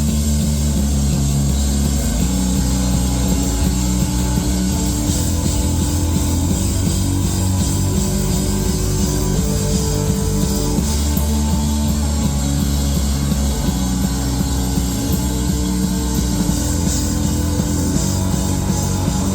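Live rock band playing the instrumental opening of a song, with electric guitar chords over bass and drums, before any singing comes in.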